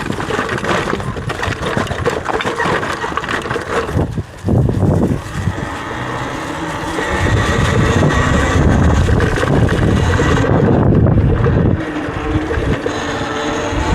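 Wind buffeting the microphone while riding a Talaria electric dirt bike, with tyre and drivetrain noise under it; it grows louder about halfway through.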